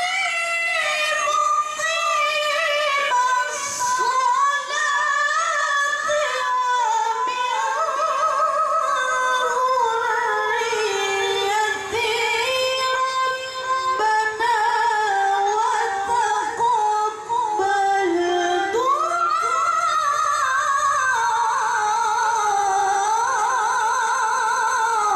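A woman reciting the Qur'an in the melodic tilawah style, in a high voice, holding long ornamented phrases with quick wavering turns on each note. About nineteen seconds in, the voice slides up into a higher phrase.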